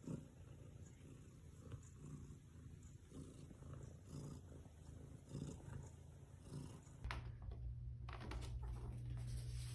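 Domestic cat purring, a faint steady low rumble that grows louder about seven seconds in.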